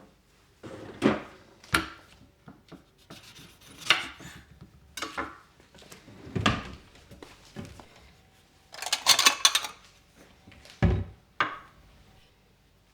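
Kitchen items being handled and rubbed: a series of separate rubbing and knocking sounds, with a quick run of rubbing strokes about nine seconds in.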